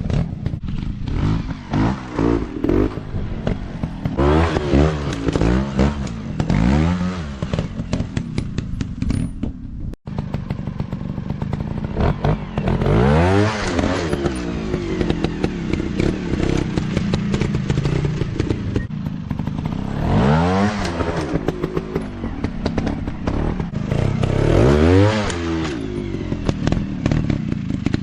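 Off-road dirt bike engines revving up and dropping back again and again, with rattling and clattering over the engine noise. The sound cuts out for a moment about a third of the way through.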